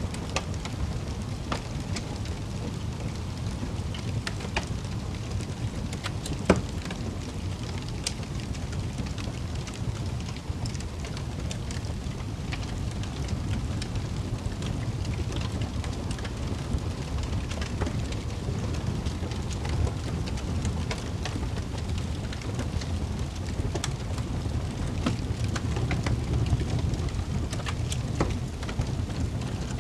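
Wood fire in a fireplace crackling over a steady low rumble, with irregular small pops and one louder pop about six seconds in.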